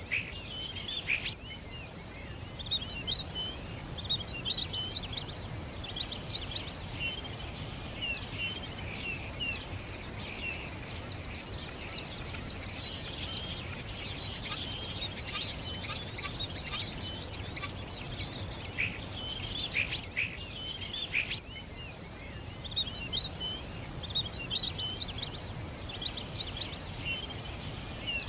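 Many small songbirds chirping and twittering together, short high calls overlapping without pause, over a steady low background rumble.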